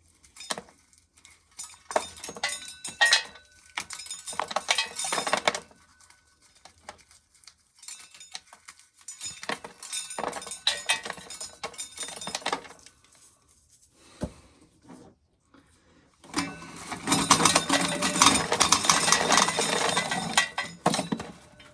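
Dry corn kernels being shelled off the cob, clicking and rattling as they fall. It comes in three bouts, the last one longer and louder.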